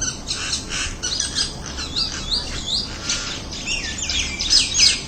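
A flock of birds calling over one another in a dense chatter of short, high calls. Near the end, sharper downward-sweeping calls come thick and fast.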